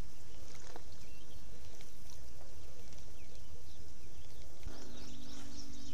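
Faint bird chirps over steady low outdoor background noise. About three-quarters of the way through, a low steady hum joins in.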